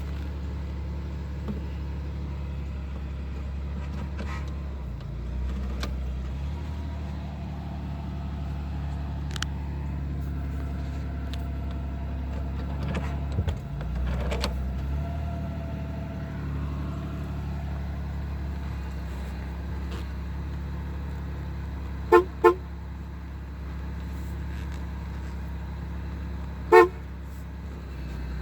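A 1992 Buick Regal Limited running with a steady low drone. A car horn gives two short toots about two-thirds of the way in and one more short toot near the end.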